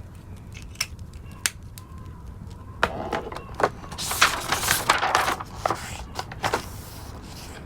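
Fireplace crackling over a low steady rumble, with a few sharp pops; from about three seconds in, several seconds of louder rustling and clicking.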